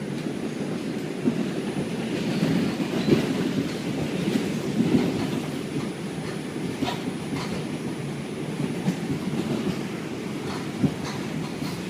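New York City subway train (5 line) running along the track, heard from inside the car: a steady low rumble of wheels on rail with occasional sharp clicks and knocks over rail joints.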